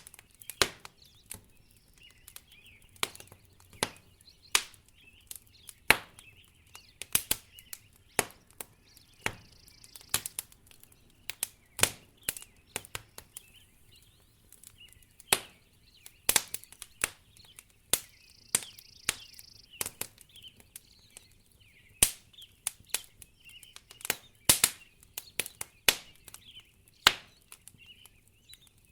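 Wood fire crackling in a fireplace: irregular sharp pops and snaps, several a second, some much louder than the rest.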